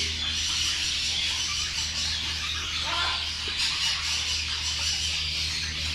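A constant din of many caged parrots and finches chirping and squawking together, over a steady low hum.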